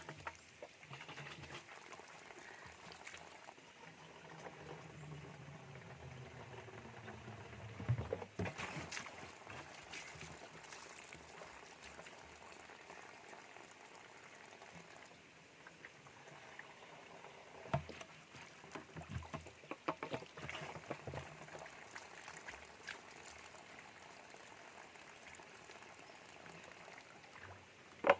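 Water running from a spring pipe and pouring into a plastic water container as it fills, a steady low trickle, with a few knocks about eight, eighteen and twenty seconds in.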